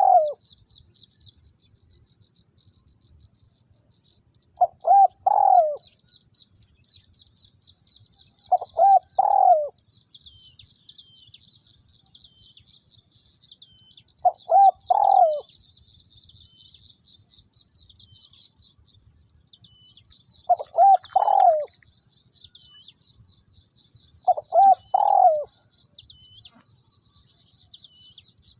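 A decoy spotted dove cooing: short phrases of a few soft notes, about every four to six seconds, five full phrases after the tail of one at the very start. A continuous high-pitched chirping runs behind it.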